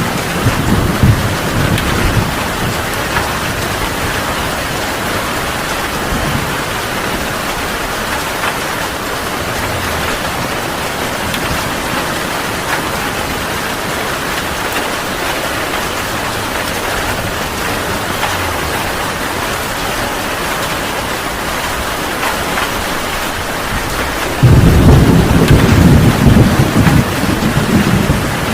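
Heavy rain falling steadily as an even hiss, with low thunder rumbling in the first couple of seconds. About 24 seconds in, a loud rumble of thunder breaks in suddenly and keeps rolling.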